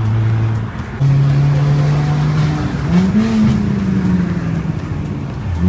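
Car engine and exhaust running, its pitch stepping up and down with a brief rise in revs about three seconds in.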